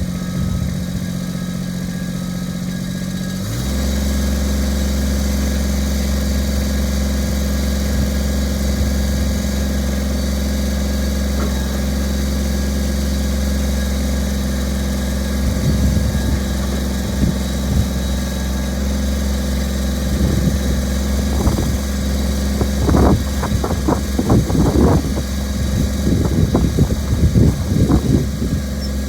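Kubota BX24 compact tractor's three-cylinder diesel engine running steadily; about three and a half seconds in it is throttled up to a higher, steady speed. From about halfway through, irregular clunks and knocks sound over the engine.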